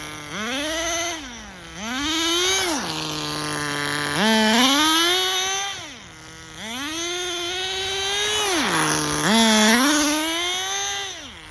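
Tamiya TGS-R nitro RC car's small glow-fuel engine revving up and dropping back to idle five times under throttle blips, a buzzing pitch that climbs and falls with each blip. The engine is set very rich and trails heavy smoke.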